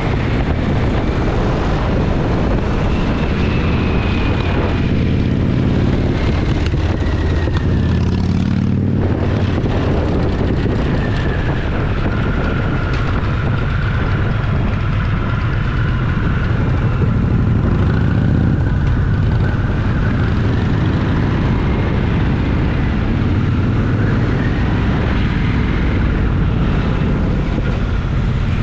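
Motorcycle engine running while riding, with wind rush over it. The engine note climbs for a few seconds, breaks off briefly about nine seconds in, then carries on steadily.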